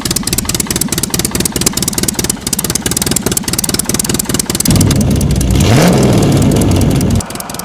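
Racing quadcopter's brushless motors and tri-blade propellers running with a crackly buzz, then throttling up louder about five seconds in with a rising pitch, before dropping off near the end.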